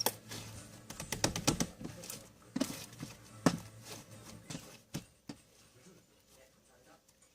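Sharp clicks and crackles from slime being handled, thick and rapid between about one and two seconds in, then a few single clicks that die away towards the end.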